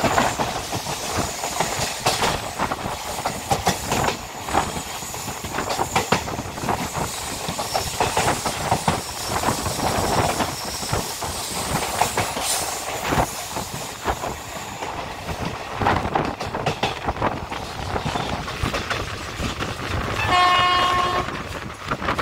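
An express passenger train running through a station without stopping, its coach wheels clattering over the rail joints. Near the end the locomotive gives one short horn blast.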